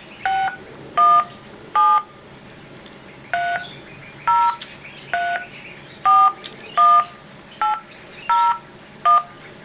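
Telephone keypad touch-tones (DTMF): about eleven short two-tone beeps, one per key press, at an uneven hand-typing pace, as a callback number is keyed in at a voicemail system's prompt.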